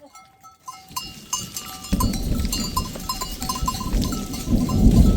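Bells on a herd of goats and sheep clinking irregularly as the animals move. A loud low noise comes in about two seconds in and stays under the bells.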